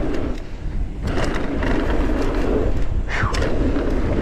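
Mountain bike rolling fast down a dirt trail: a steady rushing tyre-and-ride noise with a low rumble, and a brief falling squeal about three seconds in.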